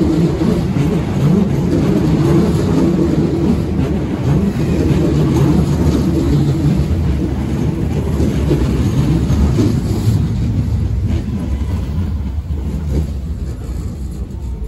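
Sanyo 5000-series electric train rolling past on a sharply curved station track, a steady rumble of wheels on rails. The noise fades near the end as the train slows to a stop at the platform.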